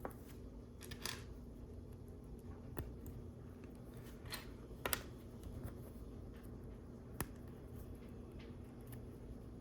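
Plastic LEGO bricks clicking as pieces are picked up and pressed together: a few scattered sharp clicks, a close double click about five seconds in, over a faint steady hum.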